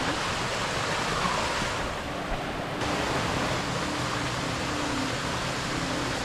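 Waterfall: water pouring and splashing in a steady rush, its upper hiss dulling for about a second near two seconds in.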